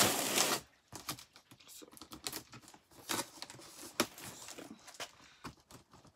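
Packing tape torn from a cardboard shipping box in one loud rip at the start, then scattered small clicks, scrapes and rustles of the tape and cardboard being picked at and handled.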